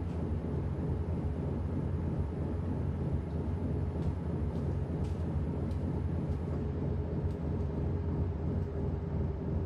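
Washing machine running with a steady low rumble and hum. A few faint ticks sound about halfway through, and a steadier higher hum joins in over the second half.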